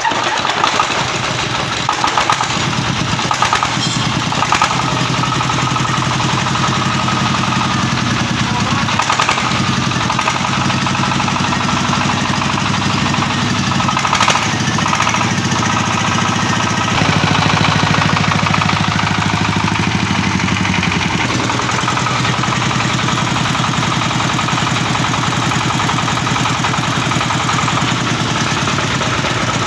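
D33 single-cylinder diesel engine running steadily through its exhaust with a fast, even chugging beat; its note shifts briefly a little past halfway, then settles back.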